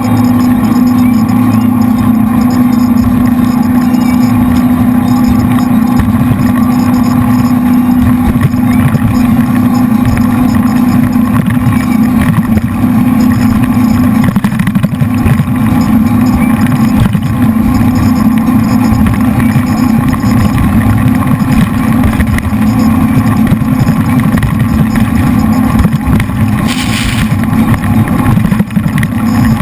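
Jet boat's three V8 engines running hard under way, a loud steady drone with a strong low hum that hardly changes. A short hissing burst comes about three seconds before the end.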